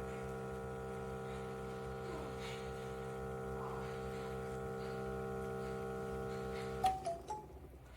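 KitchenAid KF8 fully automatic espresso machine running with a steady hum of several tones, which cuts off suddenly with a click about seven seconds in.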